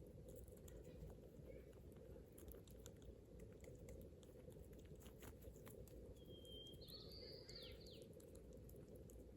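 Faint outdoor ambience: a steady low rumble with scattered soft clicks, and one short chirping call about six to seven seconds in.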